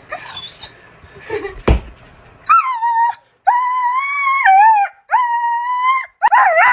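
A dog howling in four long, steady-pitched calls, the last one wavering, after a single sharp knock; a high, wavering whine at the very start.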